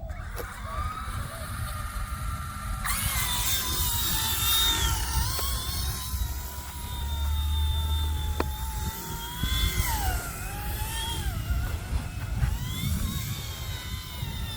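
Small electric RC helicopter (RC ERA 186C Pro) motor and rotor whining, getting much louder about three seconds in and then rising and falling in pitch as the throttle changes. Wind buffets the microphone throughout as a low rumble.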